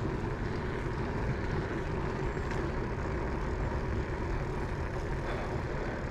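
Steady rumbling noise of riding a bicycle, with wind on the microphone and road noise from the tyres.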